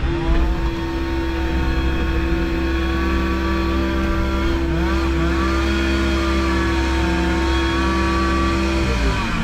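Engine of a compact land-clearing machine running steadily at high throttle, with a deep rumble and a steady whine on top; the whine and engine note drop near the end.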